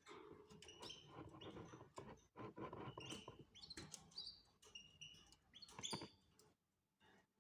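Canaries chirping softly in short, squeaky calls, with light clicks and rustling among them.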